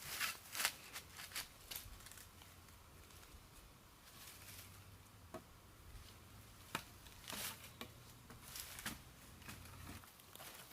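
Scattered rustles, scrapes and short crackles of material being handled, with a few sharp clicks, over a faint low hum that stops near the end.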